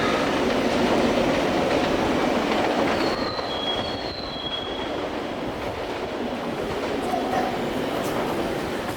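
E926 "East i" Shinkansen inspection train running slowly through the station, its wheels rumbling over the rails, with short high-pitched wheel squeals about three to four and a half seconds in.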